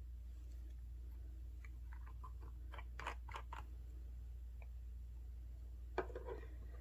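Small handling noises: a run of quick, scratchy clicks in the middle, then one sharp click with a brief rustle near the end.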